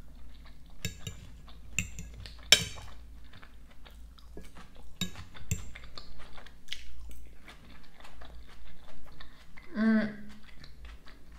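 Close-miked chewing of a mouthful of salad (iceberg lettuce, cucumber, avocado), with wet crunching clicks. A fork clinks and scrapes on the plate, with one sharp click about two and a half seconds in. A brief hummed voice sound comes near the end.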